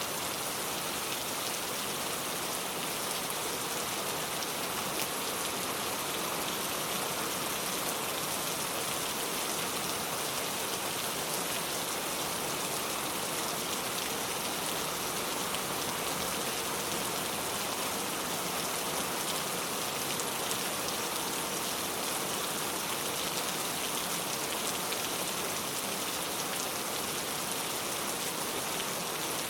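Steady rain falling, a dense even hiss of many raindrops striking surfaces.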